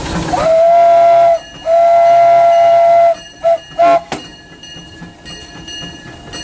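Steam locomotive whistle blown from the cab: two long blasts, then two short toots, followed by a sharp click and the steady running noise of the engine.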